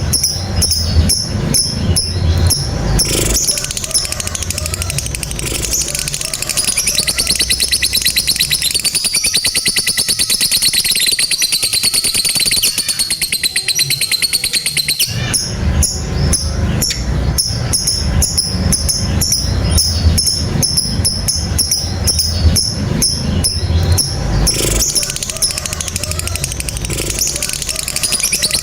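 Lovebird singing its long "ngekek" song: a rapid, high-pitched chattering trill that runs on without a break. A low deep sound lies under it at the start and again from about halfway through.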